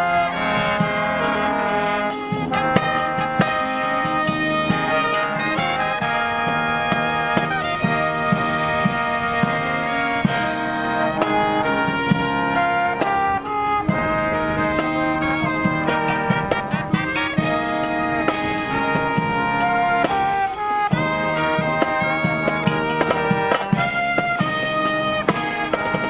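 Marching brass band playing a melodic arrangement, trumpets and trombones carrying sustained notes over a drum kit keeping a steady beat.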